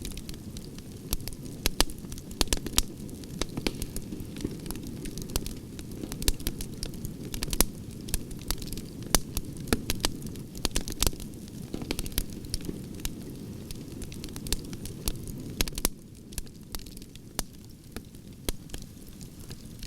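Campfire logs burning with irregular sharp crackles and pops over a steady low rush of flames.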